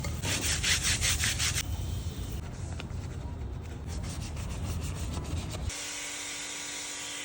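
Rapid back-and-forth scrubbing on a motorcycle being cleaned, strongest in the first second and a half and fainter after. Near the end it cuts to a steady hum.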